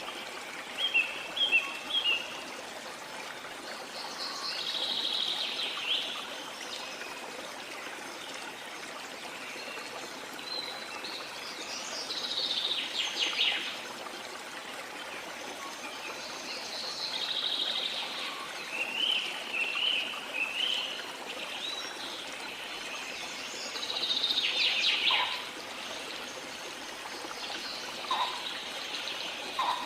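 Steady rush of a waterfall, with tropical forest birds calling over it: short chirps about a second in, then a twittering phrase every few seconds.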